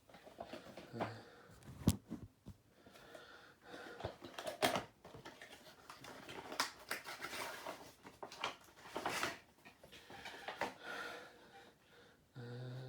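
A model airplane's box and packaging being opened by hand: irregular rustling and scraping with scattered clicks and knocks, and a short low hum near the end.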